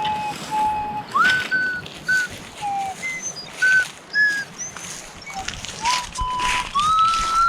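A small owl flute blown in a string of short whistling notes of changing pitch, some of them sliding up or down, with breathy noise between the notes.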